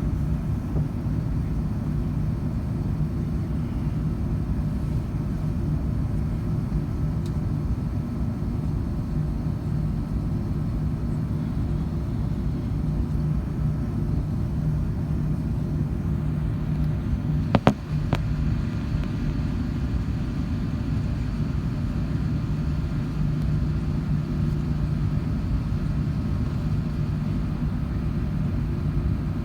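Steady low rumble and hum of an Airbus A380 heard from inside the passenger cabin, with two sharp clicks close together a little past halfway.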